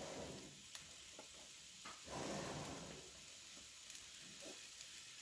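Sliced wild mushrooms sizzling in oil and fried masala paste in a black wok, with the sizzle swelling at the start and again about two seconds in as more handfuls are tipped in.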